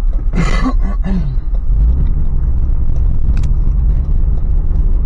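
Steady low rumble inside the cabin of a Toyota 4Runner on the move, from its 4.0-litre V6 and large off-road tires. A brief louder noise comes about half a second in.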